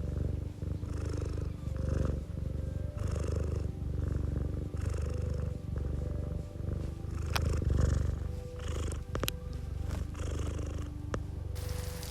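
Domestic cat purring close up, a low rumble that swells and eases about once a second with its breathing. Soft background music with held tones plays beneath it.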